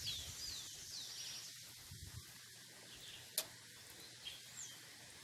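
Faint birds calling outdoors: a few short falling chirps in the first second and one more near the end, over a steady high hiss. A single sharp click about three and a half seconds in.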